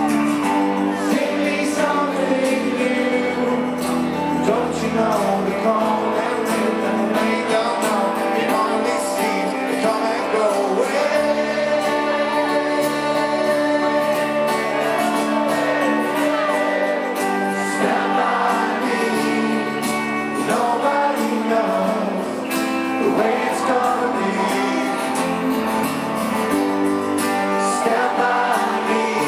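A live rock band playing, with guitars and singing.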